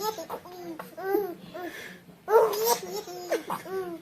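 Baby laughing in a run of short, high-pitched bursts, with a louder, breathier laugh a little past halfway.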